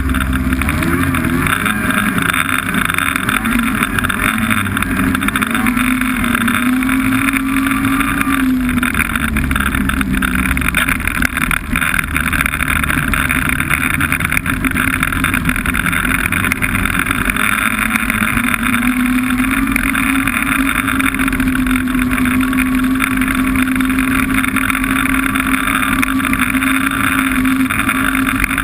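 Snowmobile engine running steadily under way, its pitch wavering over the first few seconds, dropping back around the middle and then holding steady.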